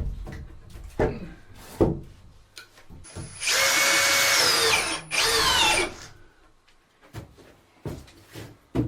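Power drill running in two bursts, a longer one of about one and a half seconds and then a short one, its whine falling in pitch as the motor slows at the end of each. Scattered knocks and handling clicks before and after.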